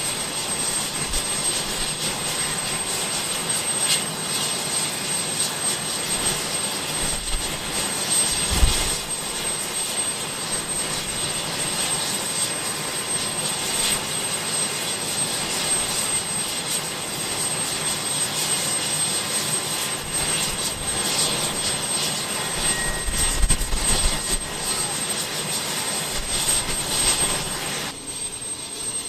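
Jet aircraft engine noise, a steady loud rush with a brief thump about eight and a half seconds in; it drops away just before the end.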